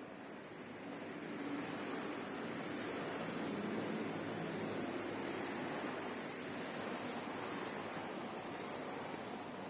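Rain falling as a steady hiss, swelling slightly louder for a few seconds in the middle.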